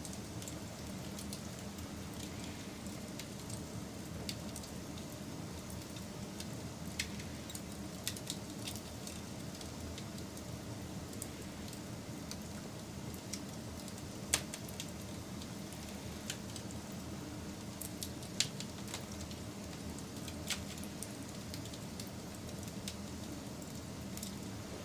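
Wood campfire burning: a steady low rustle with scattered sharp crackles and pops at irregular moments, the loudest a little past halfway.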